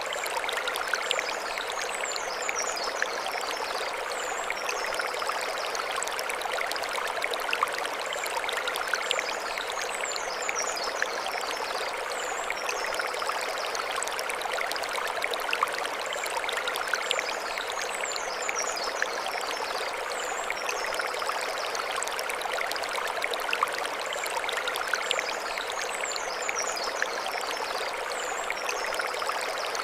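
Mountain stream flowing over stones: a steady rush with small splashes and trickles. A bird's high twittering call comes back about every eight seconds.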